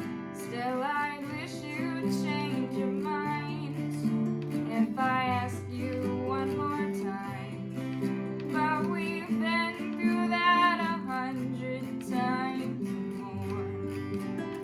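Acoustic guitar strumming chords, with a wavering melody line over it.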